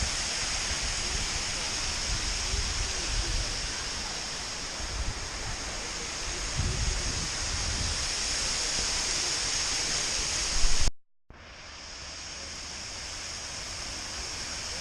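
A waterfall pouring, a steady hiss of falling water, with low wind rumble on the microphone at times. The sound cuts out briefly about eleven seconds in and comes back slightly quieter.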